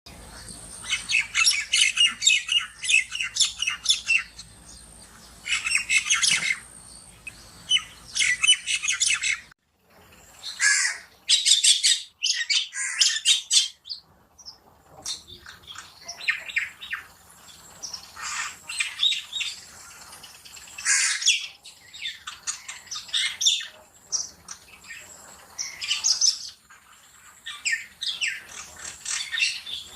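Myna chattering and squawking in repeated bouts of rapid, harsh calls, with short pauses between bouts. The sound drops out briefly about ten seconds in.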